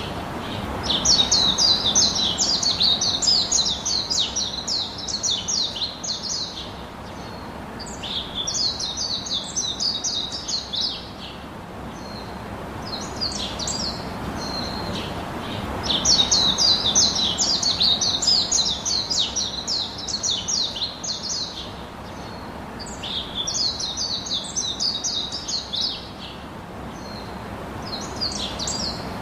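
A songbird singing: four long bursts of rapid, high chirping phrases, each lasting a few seconds, with short pauses between them. During the pauses, faint short high notes and a low background hiss continue.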